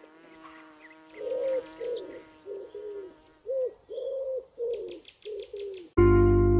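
Nature sound effect of a bird cooing: about ten short calls in quick succession over a low steady tone and faint high chirps. Near the end, loud piano music cuts in.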